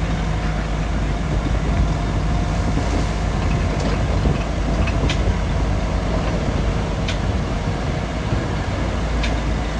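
Shantui DH17 crawler bulldozer working, its diesel engine running steadily while the steel tracks rattle, with a sharp metallic clank every second or two.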